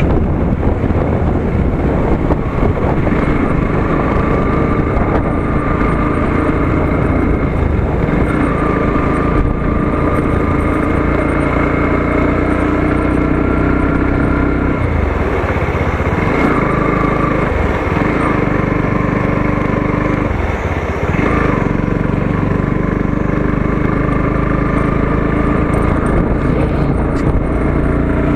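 Motorcycle engine running under way, recorded from the bike during a ride, with road and wind noise; the engine note dips and picks up again a couple of times past the middle, as the rider eases off and accelerates.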